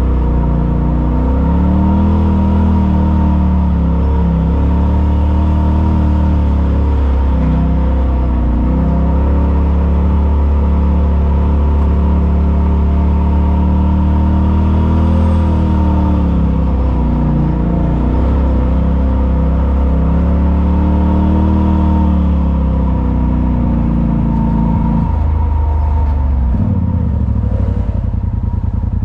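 Side-by-side UTV engine running on the trail, heard from the cab: a steady low drone whose engine note rises and falls every few seconds with the throttle, over a steady high whine. The low note shifts near the end.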